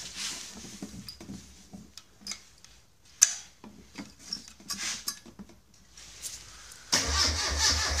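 Light clinks and knocks as the fuel hose and petrol can are handled. About seven seconds in, a bare engine on a test stand fires and runs with an even, rapid exhaust beat through open exhaust pipes with no silencer.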